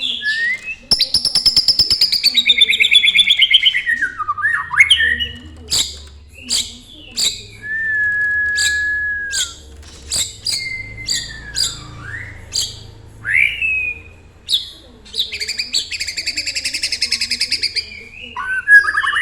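Canary singing: fast rolling trills, a long held whistle partway through, gliding notes and a run of short sharp chips, followed by another fast trill near the end.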